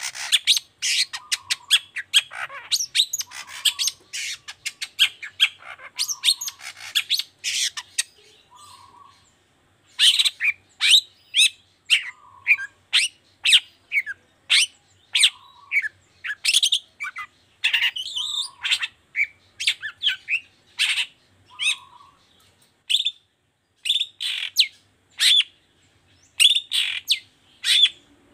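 Long-tailed shrike (cendet) calling, a fast run of short, sharp, chattering notes that pauses briefly about eight seconds in, then resumes.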